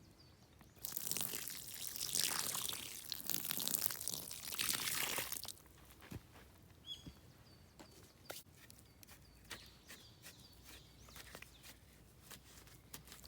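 Water poured over the embers of a campfire: a loud splashing hiss for about five seconds that stops suddenly. Afterwards a small bird calls repeatedly, with light knocks and crunches.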